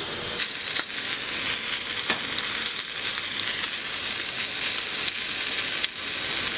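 Chicken frying in a pan: a steady sizzle with a few scattered sharp pops and crackles.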